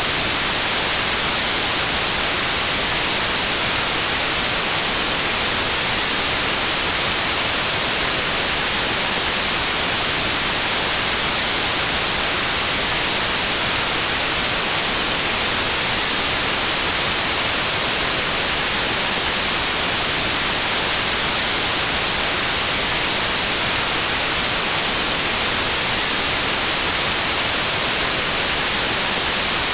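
Steady white noise: an even, bright hiss that never changes.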